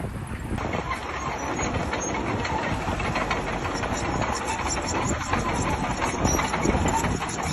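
Heavy diesel earthmoving machine, such as a bulldozer, running under load with a dense metallic clatter like crawler tracks. The sound changes character abruptly about half a second in.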